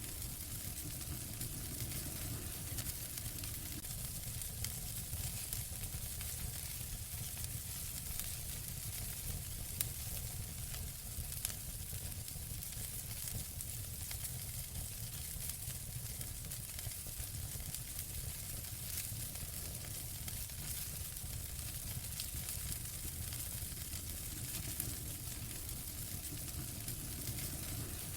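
Wood fire burning in a fireplace: a steady hiss with constant small crackles, and a couple of sharper pops about ten and eleven seconds in.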